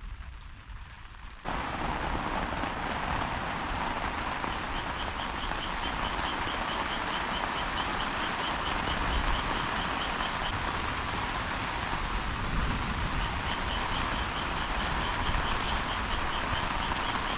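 Heavy rain pouring steadily. It jumps abruptly louder about a second and a half in, then holds, with a faint fast ticking in the background during two stretches.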